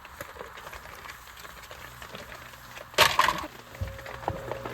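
A short, sharp crackling clatter of several quick strikes about three seconds in, over a steady hiss of rain.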